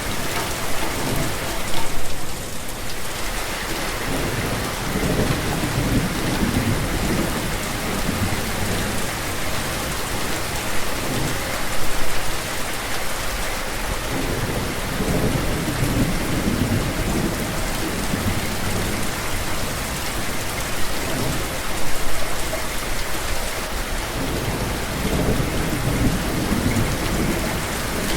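Steady rain falling, with low rumbles of thunder that swell and fade about every ten seconds.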